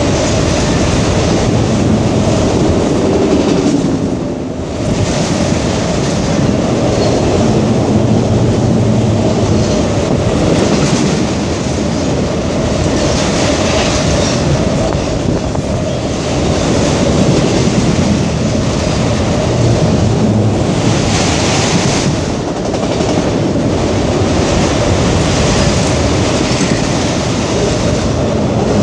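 A train rolling past on the rails, a steady, loud run of wheel-on-rail noise with a brief dip about four and a half seconds in and again about twenty-two seconds in.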